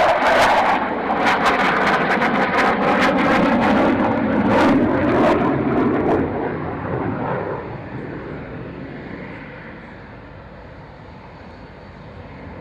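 Fixed-wing aircraft passing close by with loud engine noise and a crackle over the first few seconds. It then fades steadily away from about six seconds in.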